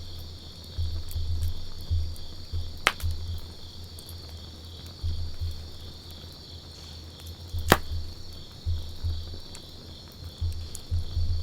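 Wood campfire crackling, with two sharp pops about three and eight seconds in and a few faint ticks, over an uneven low rumble and a steady high-pitched trill.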